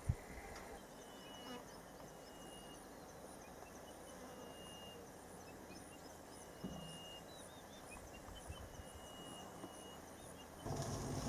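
Faint outdoor ambience: repeated short whistled bird notes over a regular high-pitched chirping. A short knock comes right at the start, and a louder low hum sets in near the end.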